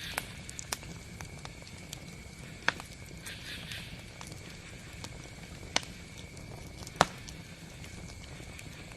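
Campfire burning with a steady low rumble, broken by scattered sharp crackles and pops of the wood, about five in all, the loudest about seven seconds in.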